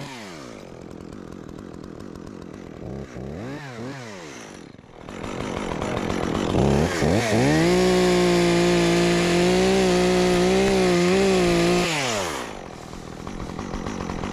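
Chainsaw idling with two short throttle blips, then revved up to full throttle for about five seconds while cutting river birch wood, and dropping back to idle about twelve seconds in.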